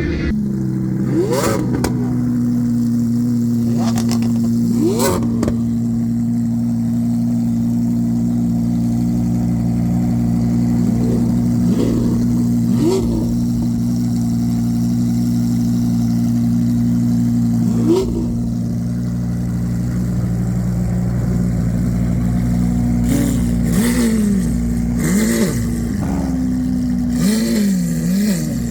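A car engine idling steadily, with short rev blips now and then, several of them close together near the end.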